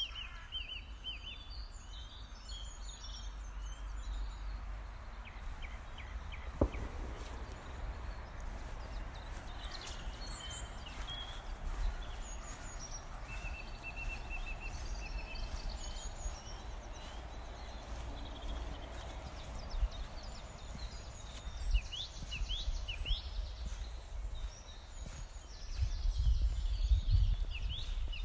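Countryside ambience: several birds chirping and trilling over a steady low rumble of wind on the microphone, which gusts louder near the end. A single sharp click about a quarter of the way in.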